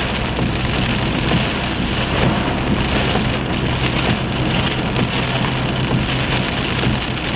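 Rain falling on a car's roof and windshield, heard from inside the cabin as an even, steady hiss, over a steady low hum from the car.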